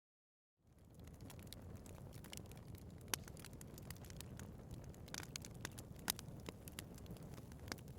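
Wood fire burning in a fireplace, fading in from silence within the first second: a steady low rumble of flames with frequent sharp crackles and pops, the loudest about three and six seconds in.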